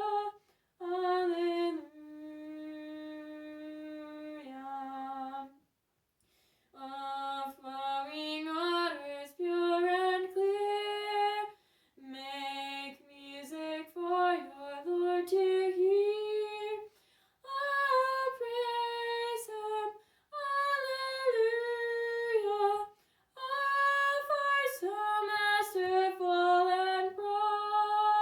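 A woman singing a tune unaccompanied, in short phrases separated by brief pauses. About two seconds in she holds one long low note.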